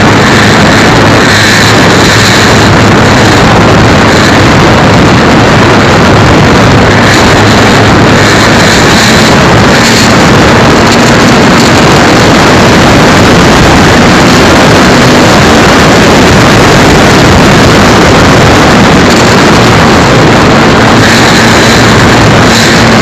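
Model Cessna 182 airplane's motor and propeller running steadily, very loud and close, heard through a micro camera mounted on the plane, with wind rushing over the microphone.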